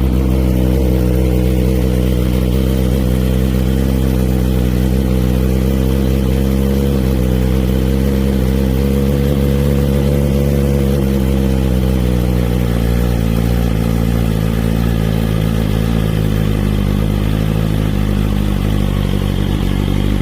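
BMW S1000RR M package's inline-four engine idling steadily through its standard exhaust. The pitch lifts slightly and settles back about halfway through.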